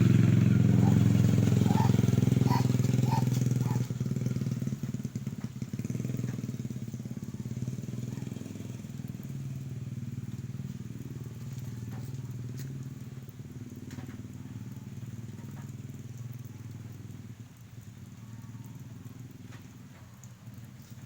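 An engine running steadily, loud for the first few seconds and then gradually fading away.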